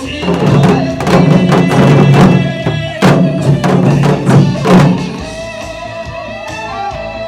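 Janggu (Korean hourglass drums) played in gogo janggu style over a recorded trot song, with rapid rhythmic drum strikes. About five seconds in, the drumming stops, leaving the backing music at a lower level.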